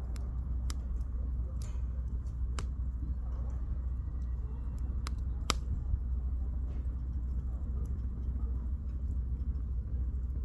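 Wood campfire burning, with sharp irregular crackles and pops from the firewood over a steady low rumble; the loudest pop comes about halfway through.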